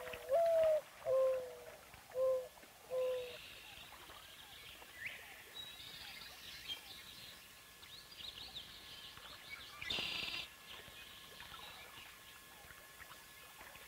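A bird's low four-note hooting call, the first note rising and the next three lower and evenly spaced, followed by faint scattered chirping of small birds, with a brief denser burst of chirps about ten seconds in.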